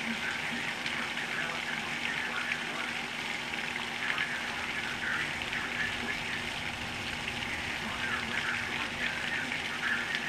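Torrential hurricane rain pouring steadily onto the street, lawn and standing floodwater: a dense, even hiss.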